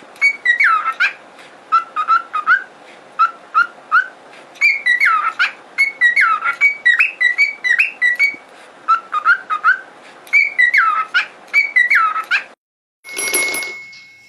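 A pet bird whistling: short whistled notes that glide up and down, in repeated phrases with brief gaps. Near the end the whistling cuts off and a short burst of noise with a steady high tone follows.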